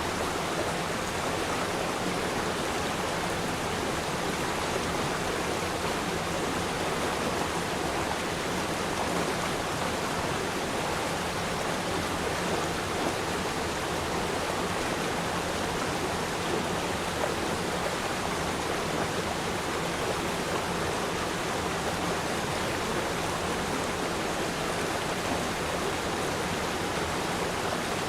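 River stream flowing: a steady rush of running water with no breaks.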